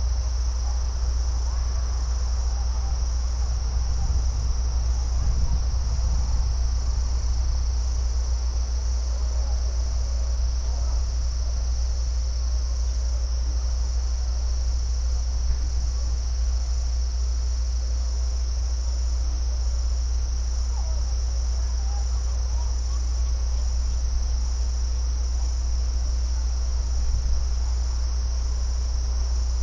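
Crickets chirring in a steady, unbroken chorus, over a constant deep low rumble.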